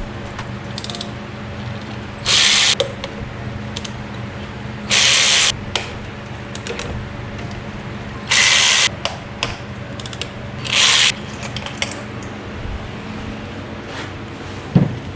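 A ratchet wrench clicking in four short bursts about two and a half seconds apart, working bolts on the engine's valve cover, over a steady low hum.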